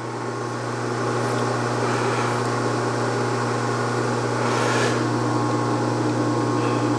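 A 1967/68 Clausing Colchester 1340 metal lathe running with a steady hum while facing the edge of a part. The sound grows louder over the first second, and there is a brief hiss about five seconds in.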